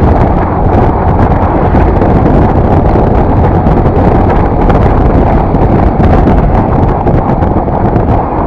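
Wind rushing over the microphone of a moving motorcycle, a loud, steady rumble with road noise underneath.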